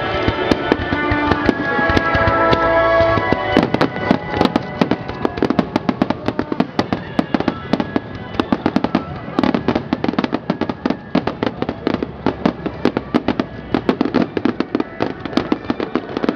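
Fireworks going off, with music of held notes heard over the first few seconds. From about four seconds in, the firing thickens into a rapid barrage of pops and bangs, several a second.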